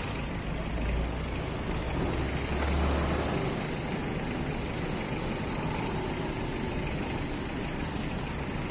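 Heavy diesel construction machinery running steadily with a low engine rumble, heavier during the first three seconds or so and then easing.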